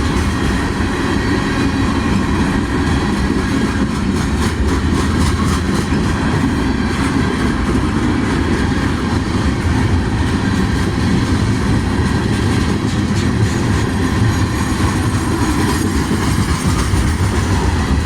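Norfolk Southern freight train rolling past, a loud steady rumble of the cars with some clicking of wheels over the rail joints.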